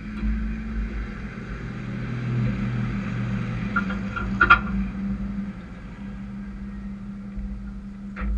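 Race truck engines running on the oval, a steady drone that swells a little through the middle, with a sharp click about four and a half seconds in.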